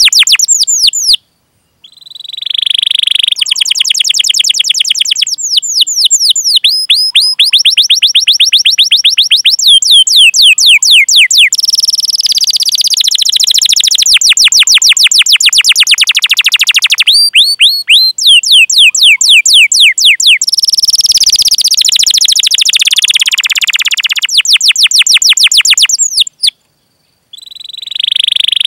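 Domestic canary singing a long song of fast rolling trills, rapid runs of repeated sweeping notes and chirps. It breaks off into silence twice: briefly about a second in and again near the end.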